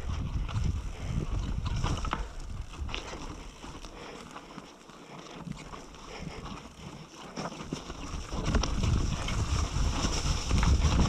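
Wind buffeting the microphone with a steady rumble, over the rattle and clatter of a mountain bike riding over rough, rocky ground. It eases off for a few seconds in the middle, then builds again near the end.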